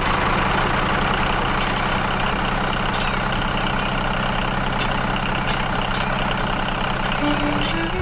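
Tractor engine running steadily, a low even drone that does not change.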